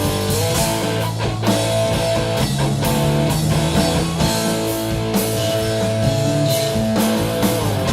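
Live rock band playing an instrumental passage: electric guitar holding sustained notes over a drum kit.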